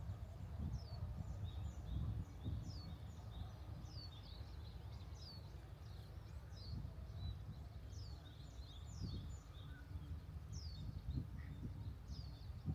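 Small birds chirping: a run of short, high calls, each falling in pitch, roughly one a second, over a low rumble.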